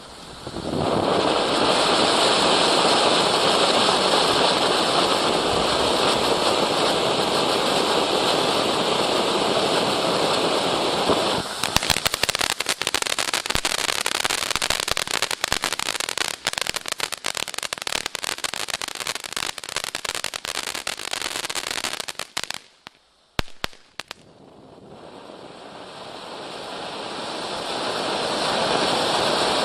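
200 g consumer firework fountain spraying: a steady rushing hiss for about eleven seconds, then dense crackling for about ten seconds. A brief pause with a couple of sharp pops follows, then the hiss builds again near the end.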